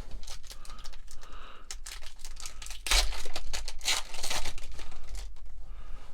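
A foil trading-card booster pack being torn open and its wrapper crinkled, a dense crackle that is loudest midway through.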